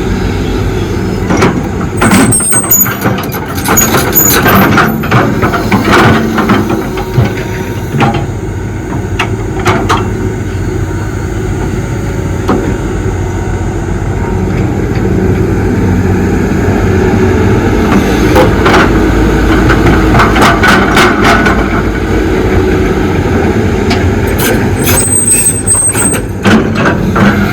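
Excavator's diesel engine running under load, with repeated metallic clanks and scrapes from the bucket and machine working dirt, and a brief high squeal twice, near the start and near the end.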